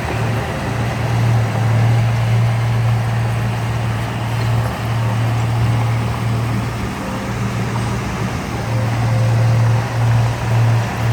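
Diesel engine of heavy earthmoving machinery running steadily with a low drone, wavering briefly a few times near the end.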